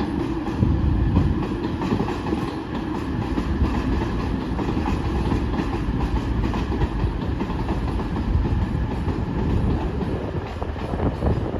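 A train moving on the tracks through a station: a steady low rumble with many small rapid clicks of wheels on rail.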